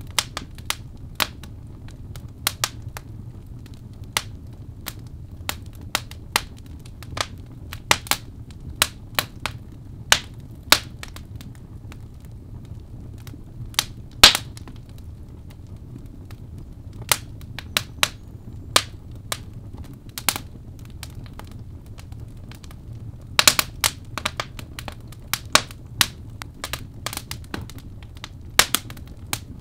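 Birch logs burning in a fireplace, crackling with irregular sharp pops over a steady low rumble. One pop about halfway through is louder than the rest, and a quick run of pops comes about three quarters of the way in.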